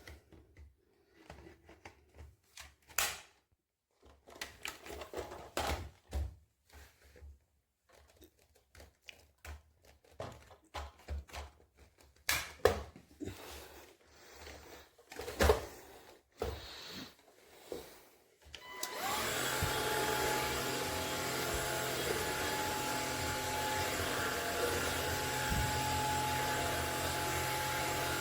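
Scattered clicks and knocks as the cordless stick vacuum is handled. About two-thirds of the way through, its motor switches on and runs steadily with a whine.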